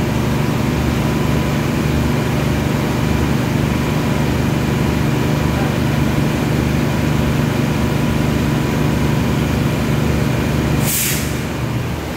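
Standing passenger train's diesel engine idling with a steady low hum. About a second before the end comes a short, sharp hiss of compressed air, typical of the train's air brakes, and the engine sound drops right after.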